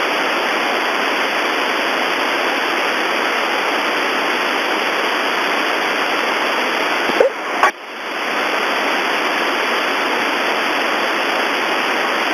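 Steady hiss of static on an open air-traffic-control radio channel, with a brief click and dropout a little over seven seconds in.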